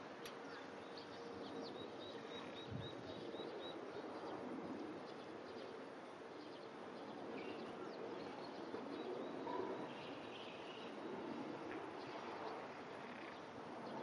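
Faint outdoor ambience with scattered distant bird chirps, including a quick run of short even ticks about two seconds in.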